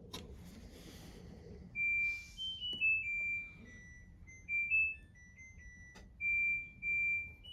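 Electronic beeper playing a simple tune of single pure tones at changing pitches, a few notes a second, with a sharp click at the very start and another about six seconds in.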